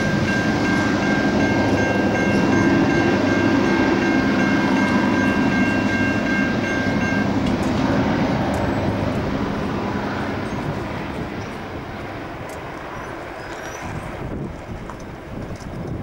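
Heritage passenger train's carriages rolling away on the rails, the rumble fading over the second half. A level crossing's warning bell rings steadily until about seven seconds in, then stops suddenly.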